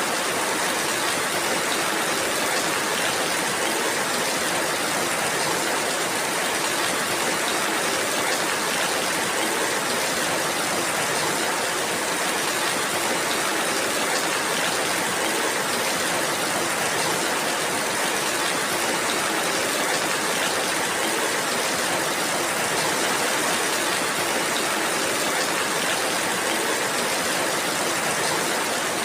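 Steady rainfall: a dense, even hiss with no single drops standing out, holding at the same level throughout.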